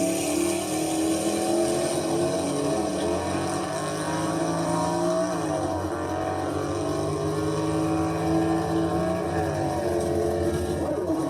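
Car engine running at a steady idle, its pitch shifting a little now and then.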